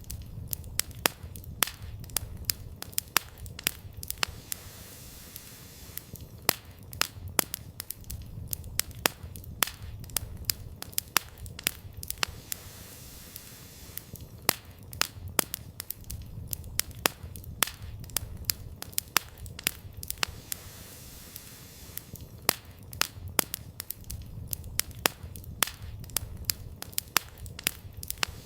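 Wood campfire burning, crackling and popping with frequent sharp snaps at irregular intervals over a low rumble of the flames.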